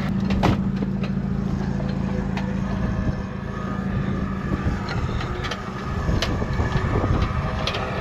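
A four-wheel-drive's engine idling steadily under wind noise on the microphone, the hum easing after about three seconds, with a few short knocks.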